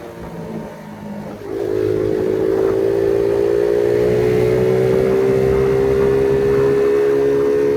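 Phoenix 50cc moped engine running. It revs lower for about the first second and a half, then is opened up and held at high revs, its pitch climbing slowly as the bike accelerates.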